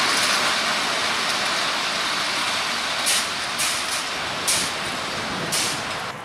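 Passenger train rolling away along the track, a steady running noise that slowly fades. In its second half come five short, sharp hisses, about half a second apart.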